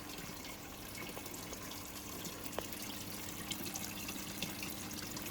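Water trickling and dripping as it drains and circulates through a flood-and-drain hydroponic system, with many small drips over a steady low hum.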